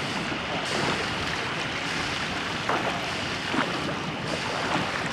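Steady rush of water and wind aboard a church boat, a large rowing boat, under way. A couple of brief knocks come about midway.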